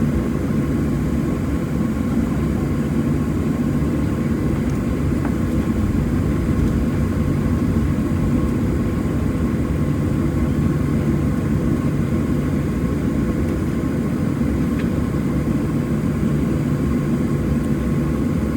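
Steady drone inside the cabin of a Boeing 737-700, its CFM56-7B engines running at a constant setting under the hiss of the cabin air, with a faint steady whine.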